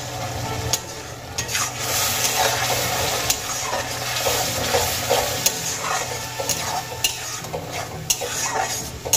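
Onion, ginger and garlic paste sizzling in hot oil in a metal kadai while a spatula stirs it, with many sharp scrapes and taps of the spatula against the pan.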